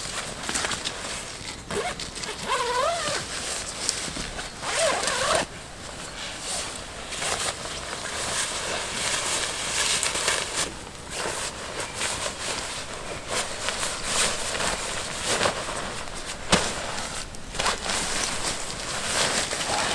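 Irregular rustling and scraping, with short sharp scratches throughout and brief wavering tones about two and five seconds in.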